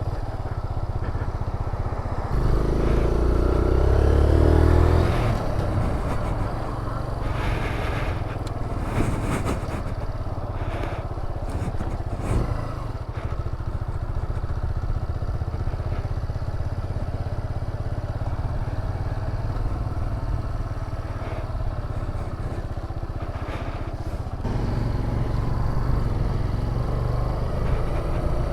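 Motorcycle running under way, its engine note rising and getting louder about three seconds in, then holding steady at cruise. Brief knocks and rattles come through in the middle, and the engine grows louder again near the end.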